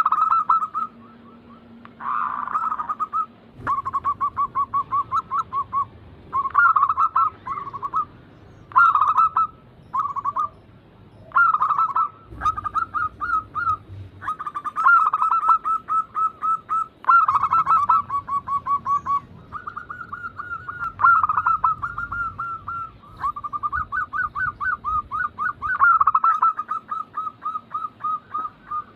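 Zebra doves (perkutut) cooing: phrase after phrase of rapid, stuttering coo notes, each phrase about a second or two long with short pauses between. This is the bird's typical song, used as a lure to get other perkutut singing.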